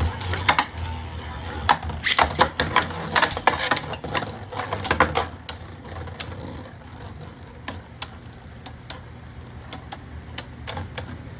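Two Beyblade Burst spinning tops clashing in a plastic stadium: rapid sharp plastic clacks as they collide for about five seconds, then only occasional knocks over a low whirr as they keep spinning.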